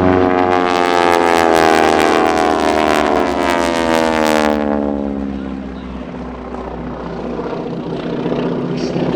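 Aircraft making a fast low pass, its engine note dropping in pitch as it goes by. It fades about five seconds in and builds again near the end.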